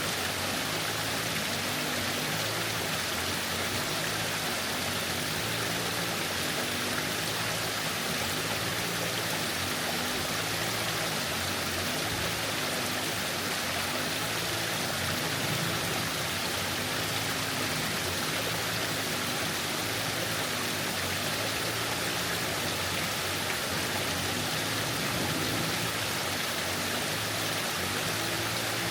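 Waterfall rushing steadily, an even roar of falling water with no break.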